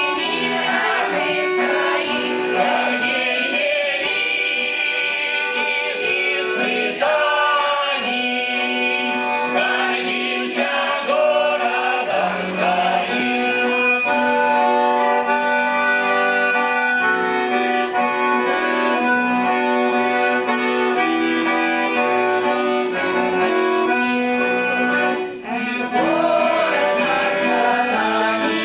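Russian folk-style song played by an ensemble led by accordion, with sustained chords and melody. There is singing near the start and again near the end, and an accordion-led instrumental passage in between.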